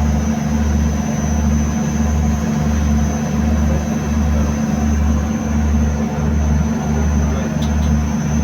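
Boat's engine running steadily, heard on board as a constant low drone with a throb pulsing about three times every two seconds and a thin steady high whine above it.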